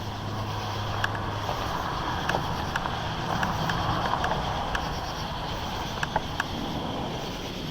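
A vehicle passing on a nearby road: the hiss of its tyres on the road swells to a peak about halfway through, then fades, with a few faint clicks scattered through it.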